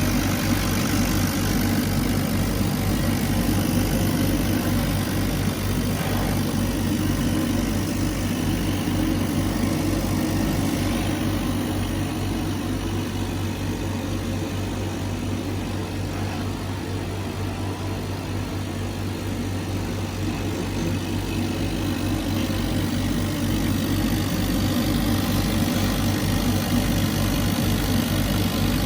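CNC laser cutter running during a cut, with a steady machine hum and a rapid low pulsing drone.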